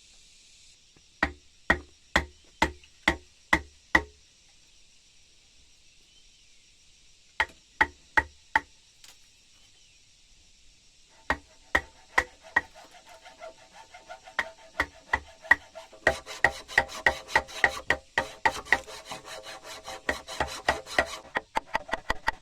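Hammer blows on wood, about two a second in short runs. About halfway through the blows come faster and closer together, with a ringing tone to them.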